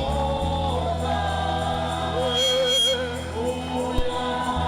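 Church congregation and choir singing a gospel praise song over a steady musical accompaniment.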